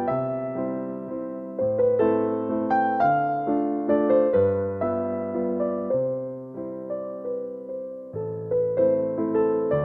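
Slow, gentle piano music: a melody of single notes over held bass notes that change every two seconds or so.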